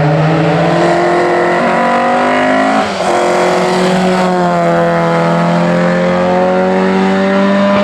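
Race car engine at full throttle on a hillclimb run, revs rising, then a quick gear change about three seconds in, after which the revs climb steadily again.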